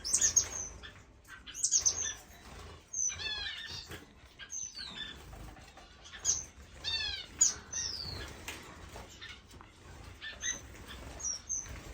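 Small finches in a bird room chirping and calling: many short, high, downward-sweeping calls, some in quick runs of three to five, with occasional short wing flutters.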